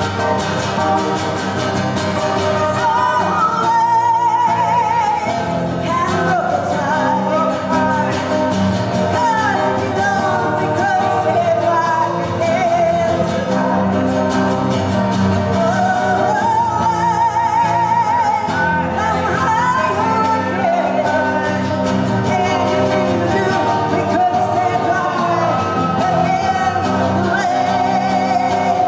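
Live music: a woman singing a wavering melody with vibrato, backed by guitar.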